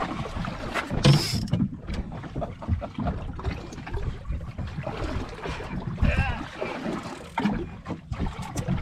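Wind buffeting the microphone and water slapping against a small boat's hull, with scattered knocks and a brief rushing burst about a second in.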